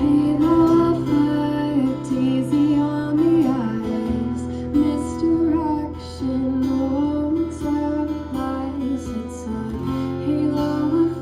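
A live band playing an instrumental passage: strummed guitar over held bass notes, with a gliding melody line on top. The chords change about four seconds in and again near the end.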